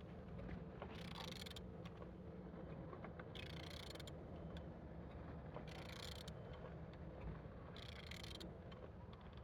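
Bare Renault M9R diesel engine being turned over by hand, a short hissing rush repeating about every two seconds over a steady low hum.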